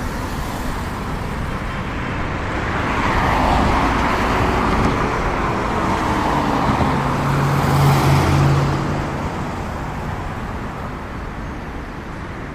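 Road traffic with cars passing by, swelling louder about three to four seconds in and again around eight seconds in, where a low engine hum comes through for a couple of seconds.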